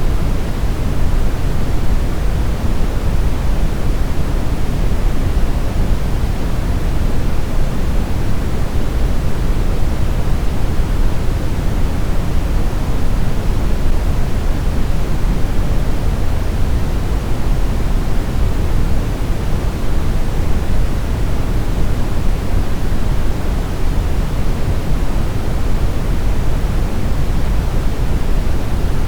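Steady brown noise: an even, deep rumbling hiss with its weight in the bass, falling away toward the treble, unchanging throughout.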